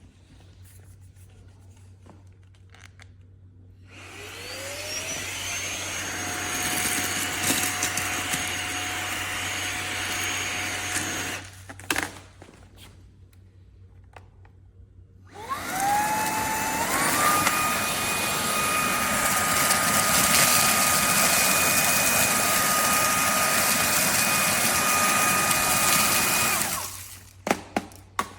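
Fanttik Slim V8 Apex cordless handheld vacuum motor switched on twice. Each time it spins up with a rising whine and then runs steadily before cutting off. The second run is louder and higher-pitched, stepping up in two stages as it spins up.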